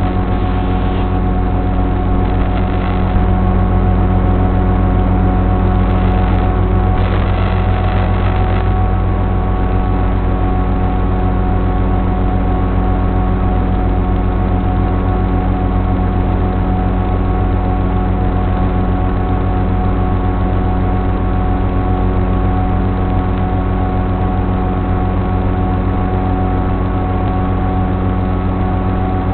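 Electric motor and pusher propeller of a Sonic Model AR Wing running at a steady throttle in flight: a constant hum of several steady tones, with brief rushes of air noise about seven seconds in.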